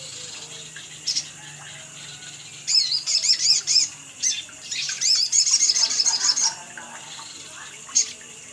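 Sogon (sogok ontong) bird singing, as on a lure recording for cage birds: two runs of rapid, high-pitched chirping notes with single sharp chirps before and after, over a steady background hiss.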